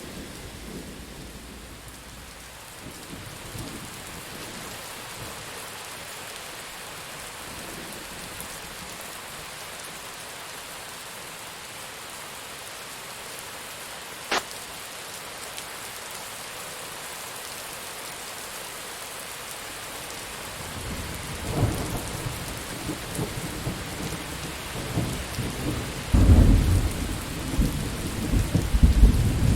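Steady rain falling, with a brief sharp click about halfway through. Thunder rolls in about two-thirds of the way through, building to a loud, deep rumble near the end.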